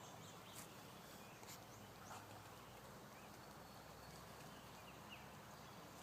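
Near silence: faint outdoor ambience with a few faint, short, high chirps from small birds.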